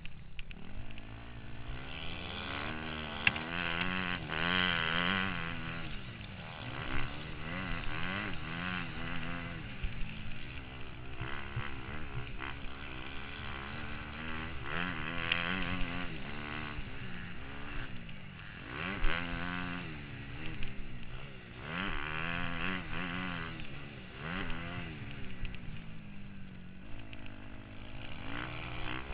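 Motocross bike engine heard from a helmet camera, revving up and dropping back again and again as the rider accelerates and shifts, with a hiss of rushing air and a couple of sharp knocks.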